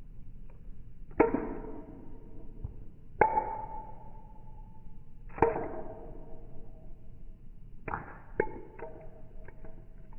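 A series of five sharp struck hits, each ringing on at a steady pitch and fading over a second or two, with a few lighter ticks near the end.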